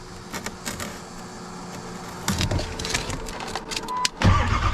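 Light clicks and rattles in the cab of a Ford Super Duty diesel tow truck. About four seconds in, its engine suddenly starts turning over with a loud, steady low sound: a cold start after glow-plug preheating, on a new starter that had failed to crank moments earlier.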